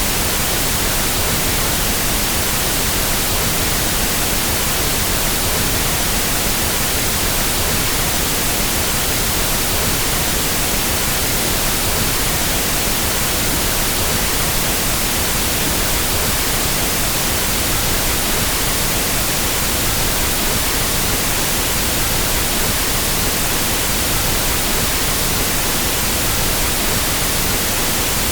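Pink noise test signal for equalising sound systems: a steady, unchanging hiss spread evenly across the whole frequency range.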